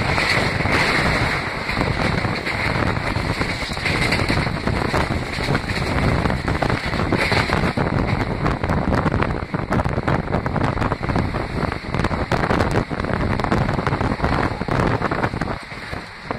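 Passenger coach of an express train running at speed, heard from an open doorway: wind rushing past, with the wheels clattering irregularly on the rails. It drops briefly near the end.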